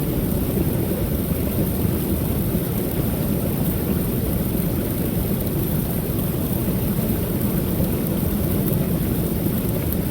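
Creek waterfall pouring steadily: a continuous low rushing of falling water, even in level throughout.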